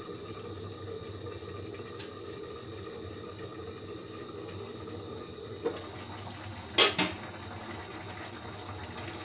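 Baim fish chorchori simmering in a pan, a steady low bubbling, with a light tap a little past halfway and a sharp double clank of metal on the pan about seven seconds in.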